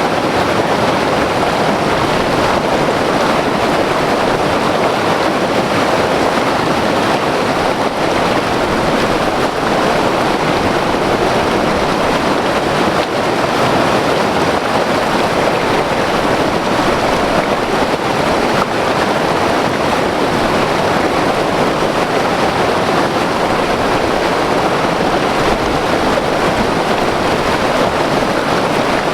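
White-water mountain river rushing over rocks: a loud, steady roar of turbulent water without let-up.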